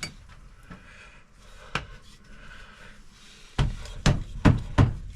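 Dust seal being knocked down into place on a KYB open chamber fork leg: a couple of light clicks, then four heavy thuds in quick succession near the end as it is seated.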